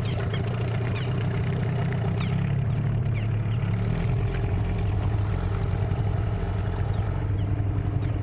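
Hidea 9.9 outboard motor running steadily at low speed, a continuous hum under the noise of wind and water.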